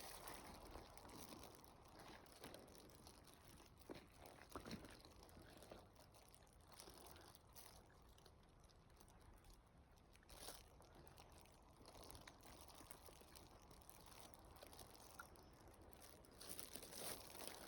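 Near silence with faint, scattered rustles and crunches.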